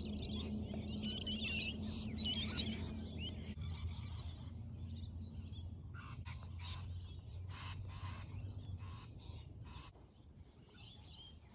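Birds chirping over a steady low hum, the chirps thickest in the first few seconds. A run of short scratchy sounds follows about six to nine seconds in, and the hum fades out soon after.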